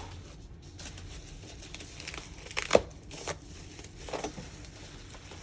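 Packaging being handled: crinkling and rustling of plastic wrap and cardboard, with a sharp tap or knock a little under three seconds in and smaller rustles after it.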